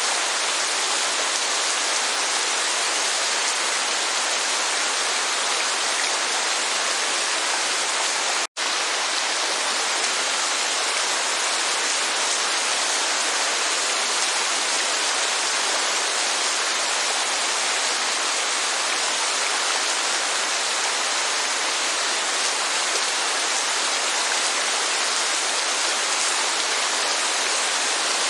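Steady rain and a waterfall, an even, dense hiss of falling water with no low rumble, broken once by a split-second gap about eight seconds in.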